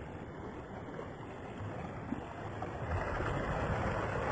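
Sea sounds of waves washing, with wind: a steady rushing noise that grows a little louder about three seconds in.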